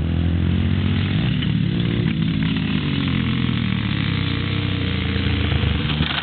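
Yamaha TT-R125 dirt bike's small single-cylinder four-stroke engine running steadily under load in fourth gear as it rides by, its pitch wavering only slightly.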